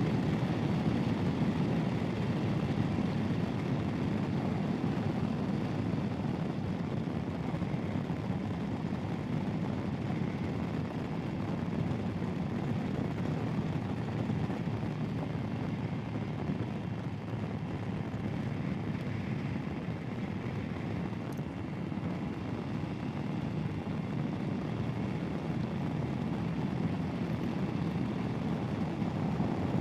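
Royal Enfield Himalayan single-cylinder motorcycle cruising at a steady speed, its engine drone mixed with steady wind rush.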